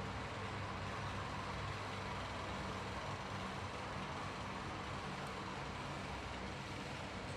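Steady low electric hum over a faint even hiss, unchanging throughout, with no ticking.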